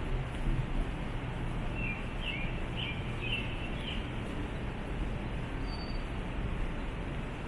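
A small bird giving a quick run of short, high chirps for a couple of seconds, over a steady outdoor background hiss and low rumble.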